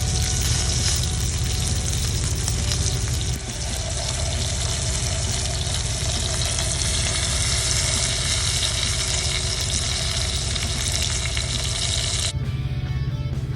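Ribeye steak sizzling as it fries in ghee in a pan, a steady loud hiss. About twelve seconds in the sizzle cuts off suddenly and guitar music begins.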